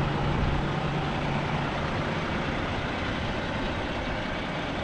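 Semi truck running: a steady engine and road rush, with a low hum that fades out about two seconds in.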